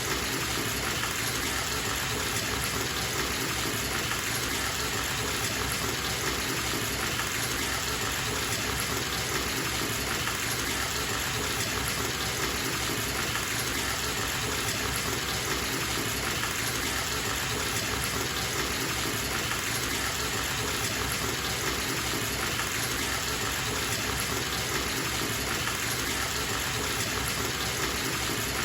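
Water pouring from a bathtub tap into the tub, a steady, unchanging gush.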